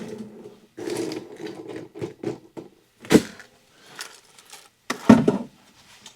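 Ice being scooped and dropped into a cocktail glass: a series of rattling, clattering scrapes, with two louder knocks about three and five seconds in.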